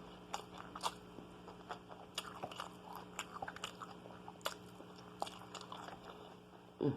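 A person chewing and eating food close to the microphone: irregular soft mouth clicks and smacks over a faint steady hum, with a brief vocal sound at the very end.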